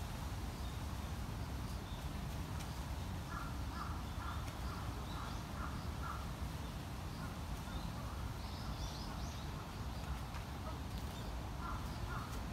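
Outdoor park ambience: a steady low background rumble, with a bird calling in a quick run of about six short repeated notes a few seconds in and again briefly near the end, and higher chirps from a bird about two-thirds of the way through.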